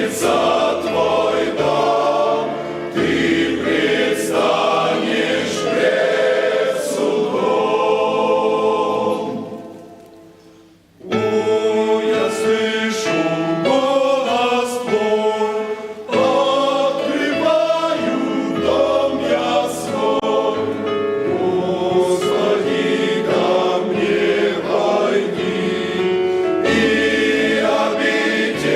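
Choir singing a Christian worship song with instrumental accompaniment. About ten seconds in the music fades away, then comes back in abruptly about a second later.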